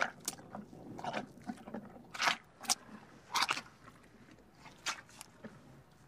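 Rhinoceros grazing, tearing and chewing dry grass: a string of irregular crisp crunches, thinning out near the end.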